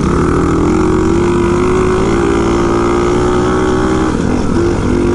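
600cc pit bike engine running at a steady mid throttle while riding, its pitch rising slightly about two seconds in and easing off near the end, with wind noise on the microphone.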